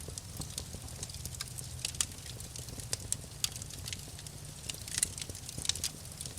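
Fireplace wood fire crackling, with irregular sharp pops over a low steady rumble; the loudest pops come about two and five seconds in.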